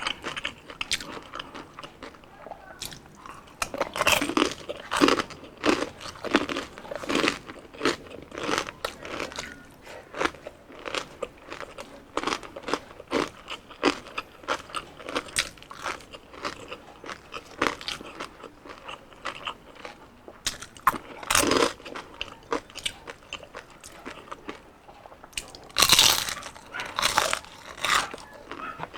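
Close-miked eating: bites into crispy deep-fried skin, with crunching and chewing in irregular crackles. There are louder crunchy bites about four to seven seconds in, again past the middle, and near the end.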